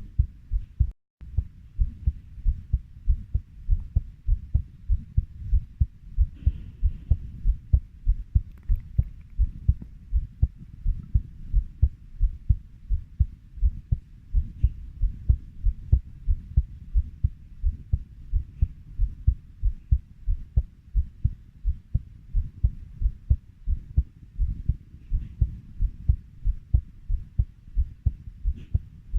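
Heartbeat at a steady 90 beats per minute, each beat a lub-dub pair of low thuds. The sound drops out briefly about a second in.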